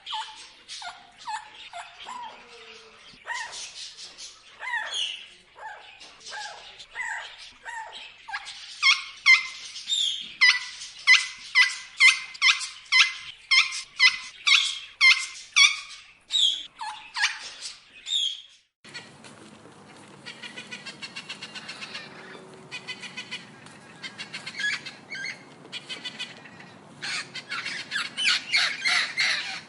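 Parrots squawking in quick, repeated calls that grow loudest around the middle. About two-thirds of the way through the sound cuts abruptly to another recording, where calls go on over a steady rushing background hiss.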